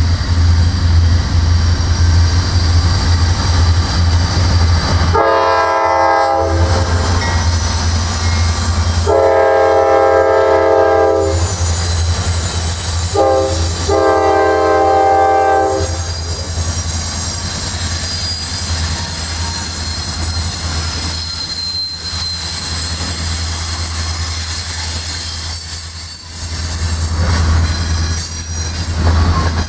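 Diesel locomotive air horn sounding the grade-crossing signal, long, long, short, long, over the steady rumble of a train running on the line. After the horn, faint high wheel squeal continues under the rumble.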